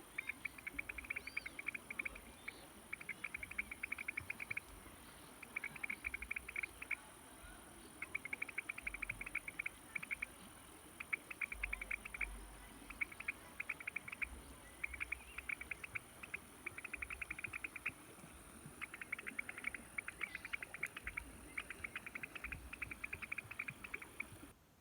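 Chorus of rapid clicking trills, each burst lasting about a second and repeating with short gaps, which the uploader takes for frogs calling. A thin steady high whine runs under them and stops near the end.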